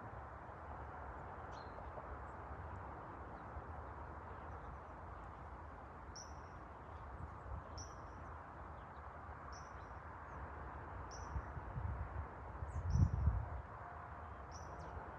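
A bird chirping short high notes about once a second over a steady background hiss, with a brief low rumble near the end.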